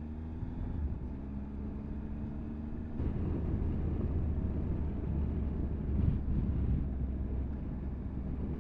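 Motorcycle engine running under way, heard from a camera mounted on the bike. The engine note climbs gently at first, then from about three seconds in the sound turns louder and rougher with road and wind noise.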